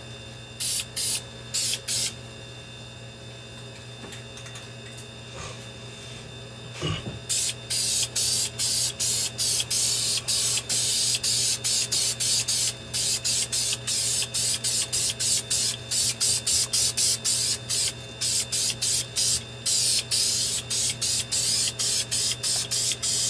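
Aerosol spray can of silver ceramic engine enamel spraying in short repeated bursts of hiss. A few bursts come in the first two seconds, then after a pause a rapid run of about two a second. A steady low hum runs underneath.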